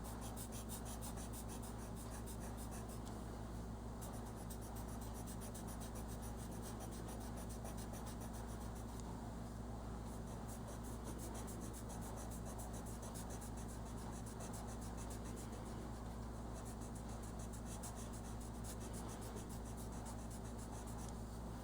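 Colored pencil scratching and rubbing on paper as an area is coloured in, faint and steady over a low hum.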